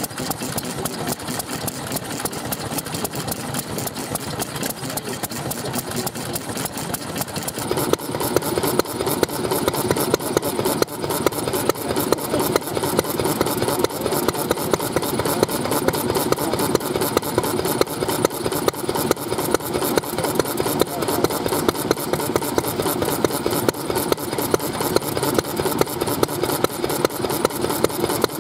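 Old stationary petroleum engines (hatsudoki) running with a rapid, even beat of exhaust pulses. The sound steps up in loudness about eight seconds in.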